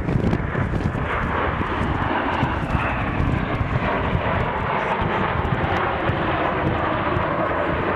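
Fixed-wing aircraft flying by, its engine noise steady and continuous.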